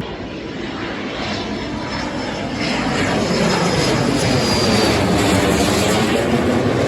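Engine noise of a fixed-wing aircraft flying past, growing louder about halfway through.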